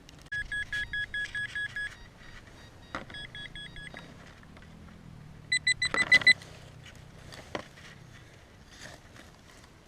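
Metal detector signalling a buried target with short electronic beeps: a quick run of about seven even beeps, a fainter run, then a louder, higher-pitched run of beeps near the middle along with a few sharp knocks.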